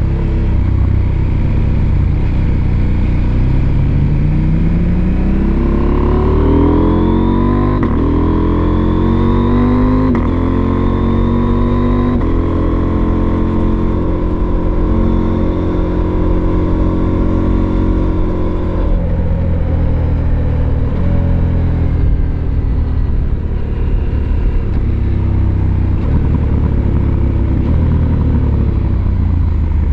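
Husqvarna Norden 901's 889 cc parallel-twin engine under way: it pulls hard with a rising note from about four seconds in, shifts up a couple of times, holds a steady cruise, then the throttle is rolled off a little past halfway and the note falls.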